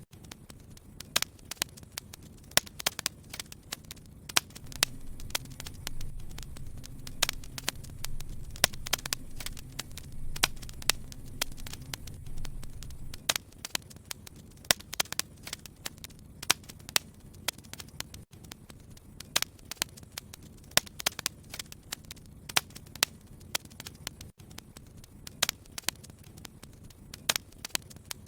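Fire in a fireplace crackling, with frequent sharp pops over a soft hiss. A low rumble of the flames swells for several seconds in the first half, then drops away.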